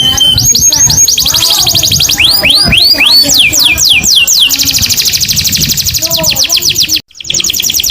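Canary singing in tours: fast runs of repeated downward-sweeping whistled notes, with a slower series of longer down-slurred notes in the middle. It breaks off for a moment near the end, then the trill resumes.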